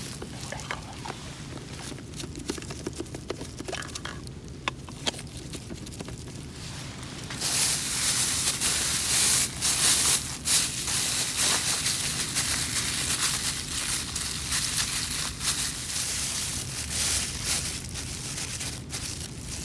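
Hot frying oil sizzling, starting suddenly about seven seconds in with crackling pops, then easing off towards the end. Before it come faint rustles and small clicks.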